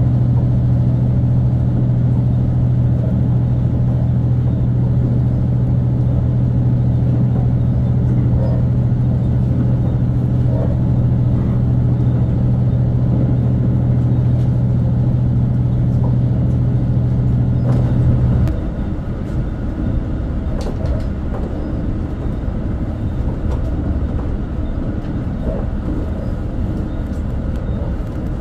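Resort Shirakami diesel-hybrid train under way. A steady low drone runs for about eighteen seconds, then cuts off suddenly, leaving a quieter even running rumble.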